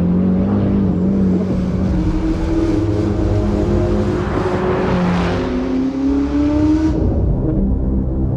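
Ferrari SF90 XX Stradale's twin-turbo V8 accelerating hard, its pitch climbing, dropping at an upshift about five seconds in and climbing again before easing off near the end.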